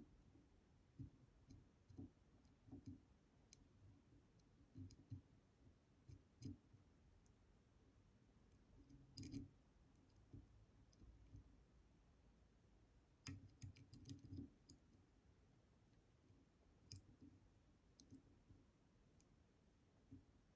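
Faint, scattered clicks of a pick turning the discs inside a DOM Diamant disk detainer lock, as each disc is rotated while it is checked for binding and set. The clicks come singly, with a small cluster about nine seconds in and a quicker run of them around thirteen to fourteen seconds.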